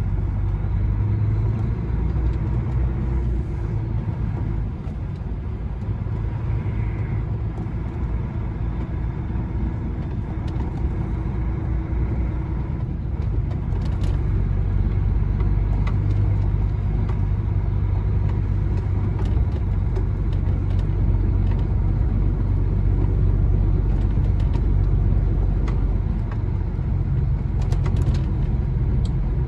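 Lorry engine and tyre noise heard from inside the cab while driving: a steady low drone that rises a little in the second half.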